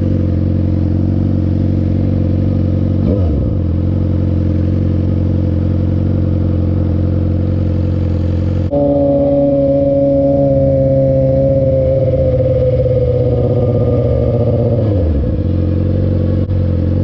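2006 Suzuki GSX-R600 inline-four through a Coffman's exhaust, running at steady revs while riding. Its note changes abruptly about halfway through and then eases down slowly, with brief drops in revs about a third of the way in and near the end.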